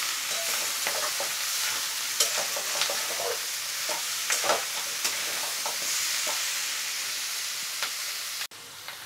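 Oysters and potato slices sizzling in hot oil in an aluminium kadhai, stirred with a metal spatula that scrapes and clinks against the pan every second or so. The frying sound drops off abruptly near the end.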